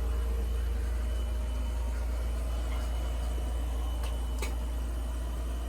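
A steady low engine hum, with a single faint click about four and a half seconds in.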